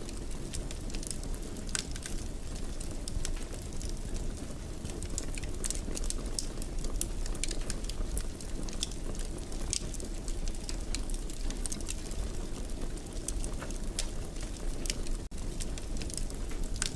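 Wood fire burning in a fireplace: a steady low rumble and hiss with frequent small crackles and pops, and a momentary dropout about fifteen seconds in.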